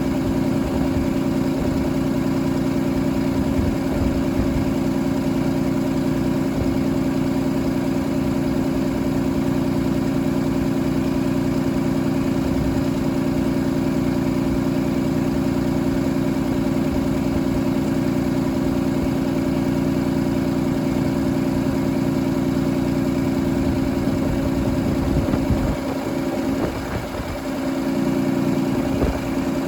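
Cummins ISB6.7 inline-six turbo diesel running at a steady idle. Near the end its speed sags briefly and then comes back up.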